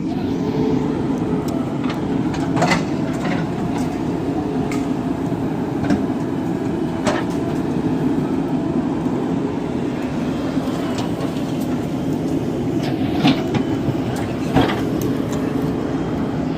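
Heavy diesel engine running steadily under load, with a few sharp metallic knocks.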